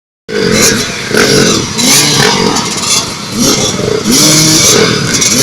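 Motocross dirt bikes racing, engines revving hard and climbing in pitch again and again as they accelerate through the gears.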